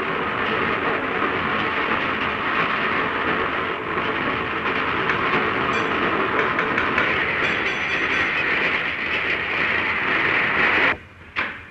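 Express steam train running at speed: a steady rush of wheel and rail noise that cuts off abruptly near the end.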